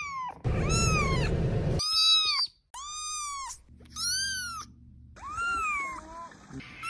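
A cat meowing over and over, about six high-pitched calls that each rise and fall, spaced roughly a second apart. A loud rustling noise runs under the first call.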